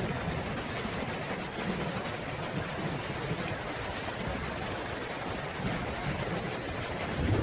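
Steady rain falling, an even hiss with a low rumble underneath that swells slightly near the end.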